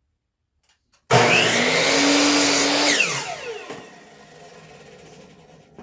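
Electric miter saw switched on with a sudden start, running at full speed for about two seconds while making a 45-degree cut in a 1x2 wood slat. It is then released, and the blade winds down with a falling whine that fades away; a short knock comes at the very end.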